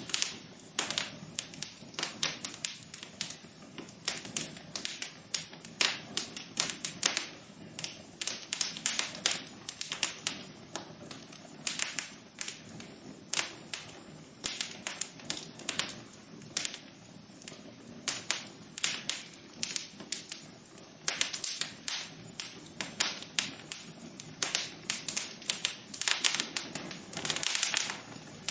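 Wood fire crackling in a fireplace: many irregular sharp pops and snaps, some in quick clusters, over a soft steady hiss of burning.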